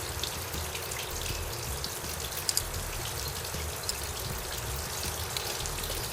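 Steady running and splashing water, typical of the garden hose feeding the outboard's flush attachment, with a few light clicks about two and a half seconds in.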